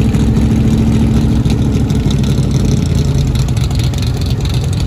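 A car engine idling steadily close by.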